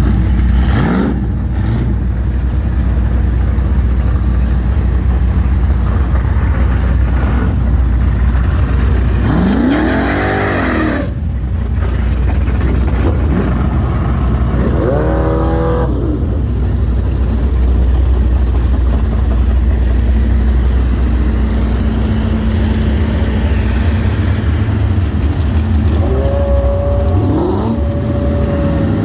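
Drag-racing car engines: a steady low engine rumble, with engines revving up and falling back in pitch about ten seconds in, again around fifteen seconds, and near the end.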